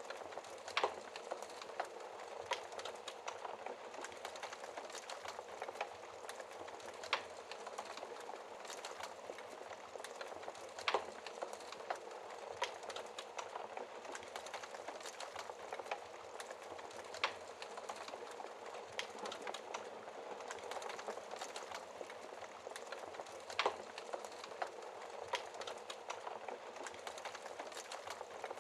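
Wood fire in a fireplace crackling: a steady hiss of burning with many small crackles and an occasional louder pop every few seconds.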